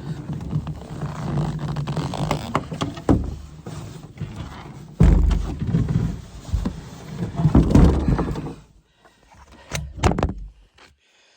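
Rubbing, knocking and heavy thumps as a cedar strip solo canoe is lowered off the shoulders, with two sharp knocks near the end as the phone filming it is dropped.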